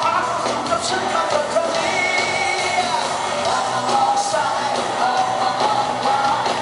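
Live pop band music playing at a concert, an upbeat song with a steady beat and singing over it.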